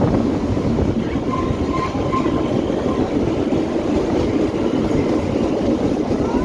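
Kalka–Shimla narrow-gauge toy train running along, a steady rumble and rattle of the carriage and wheels on the rails.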